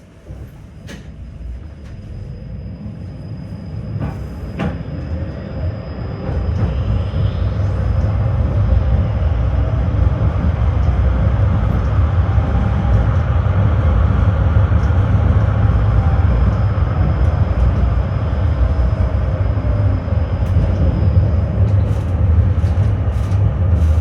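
Tram pulling away and gathering speed: the rumble of wheels on rails and motors grows steadily louder over the first several seconds, then runs on evenly at speed. A few sharp clicks sound in the first five seconds, with a faint high whine above the rumble.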